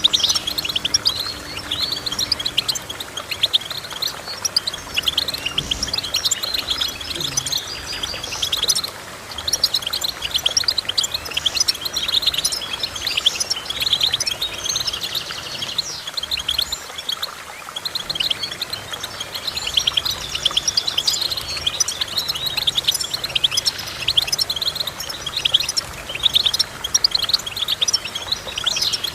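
Finch singing: a long, rapid run of twittering notes, with a buzzy trill about halfway through, typical of goldfinch song.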